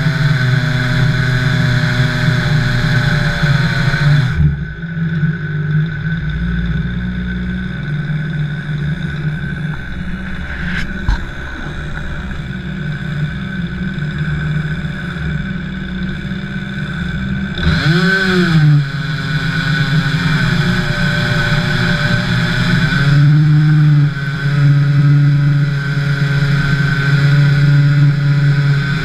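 Jonsered 2149 Turbo two-stroke chainsaw running at high revs while milling a log in a chainsaw-mill jig, its pitch shifting with the load. The pitch drops about four seconds in and there is a brief rev and fall around two-thirds of the way through.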